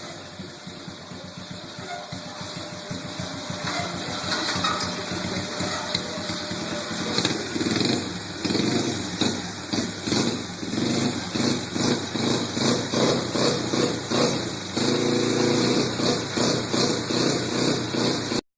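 Pit bike engine running and revving, getting louder, with rapid throttle pulses about two a second through the middle, then a steadier, higher run near the end. The sound cuts out abruptly just before the end.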